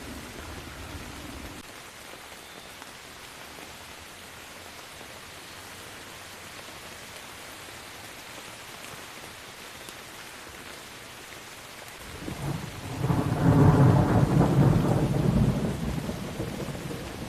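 Steady rain falling, with a roll of thunder that builds about twelve seconds in, rumbles loudly for a few seconds and slowly dies away.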